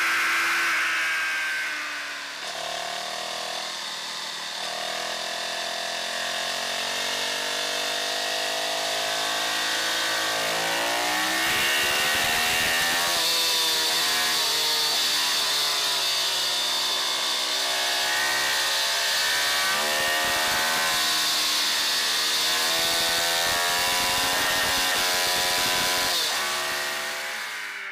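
Ducati Streetfighter's L-twin engine at full throttle on track, its pitch repeatedly climbing under acceleration and falling back on gear changes and braking, with wind rushing over the microphone. The engine drops off briefly about two seconds in before pulling hard again.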